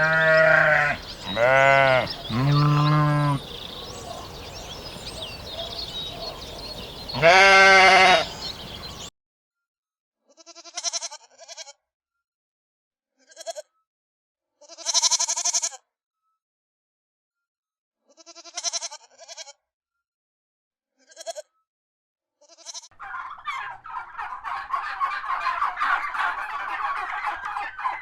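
Bleating livestock. There are three drawn-out calls in quick succession at the start and another about seven seconds in. After a cut come short, higher-pitched calls with silence between them. Near the end there is a dense clamour of many overlapping calls.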